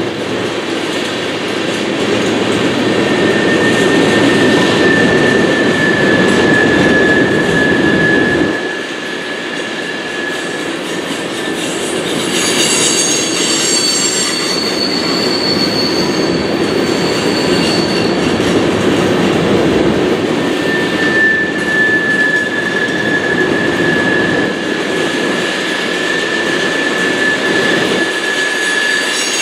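Freight train cars rolling past with their wheels squealing: a steady high-pitched squeal rises out of the rumble of the cars, fades, returns at a higher pitch in the middle, and comes back again near the end. The low rumble drops off about eight seconds in.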